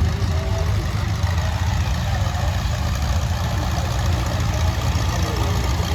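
Tractor engine idling, a steady low-pitched running sound with fast, even firing pulses.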